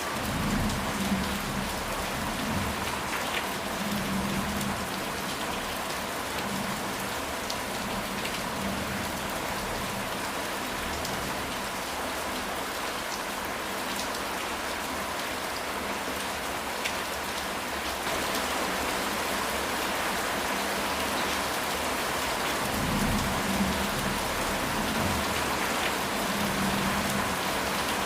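Steady rain falling on a house roof, with low rumbles of thunder in the first few seconds and again near the end.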